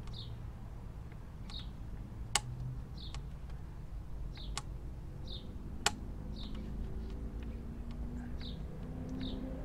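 A small bird chirping over and over, a short high chirp about once a second. Three sharp metal clicks stand out as the 6 mm hex wrench works the top radiator screw of the motorcycle. A steady low rumble runs underneath.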